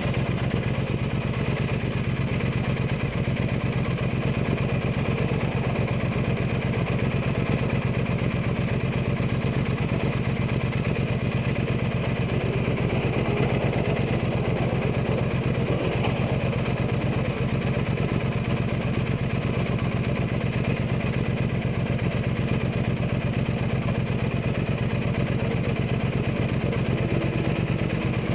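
Triumph Bonneville T120's 1200 cc parallel-twin engine running steadily through an aftermarket Zard exhaust, its note even and unchanging.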